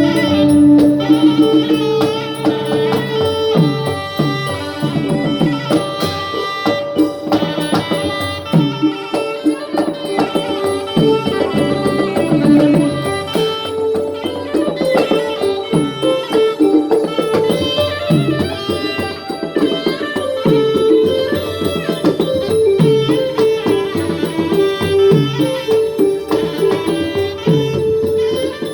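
Southern Thai Manora (Nora) traditional music played live by its ensemble: a continuous melodic line over fast, steady drumming and rattling percussion.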